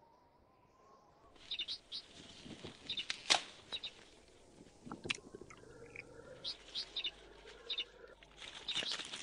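A small bird chirping in short, high calls, repeated on and off, with two sharp knocks between them. The sound turns busier and noisier near the end.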